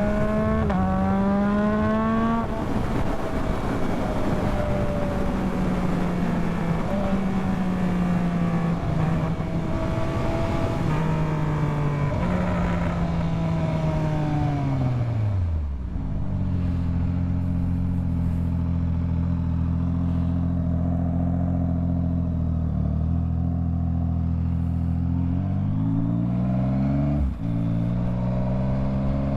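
Yamaha MT-09 three-cylinder engine under way with wind rush, its pitch climbing through a couple of quick upshifts early on. About halfway through the revs drop as the bike slows to a stop. It then idles steadily until it pulls away with rising revs near the end, with one quick gear change.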